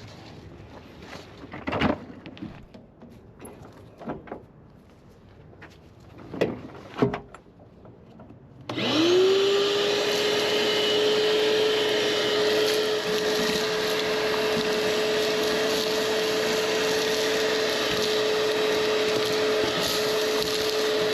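Scattered knocks and clatter, then about nine seconds in an electric motor spins up quickly and runs on steadily at a constant whining pitch.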